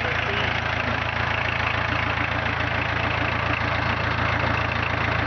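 VW 1.6 diesel four-cylinder engine in a mini-tractor running steadily at a constant speed, with an even low drone.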